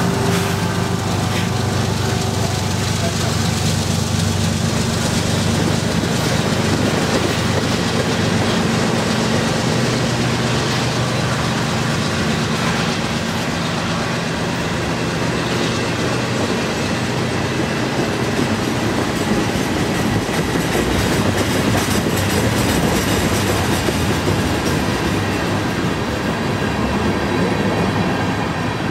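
Freight train rolling slowly past on a steady pass: the diesel locomotive's engine drone fades over the first half as the tank cars and gondola cars go by, their wheels clacking over the rail joints.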